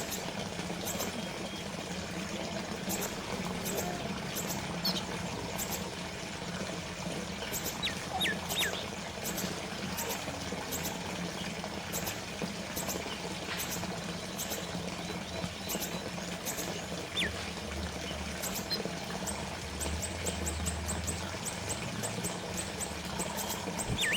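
Small water fountain trickling and splashing steadily, with a few short, high, falling bird chirps now and then.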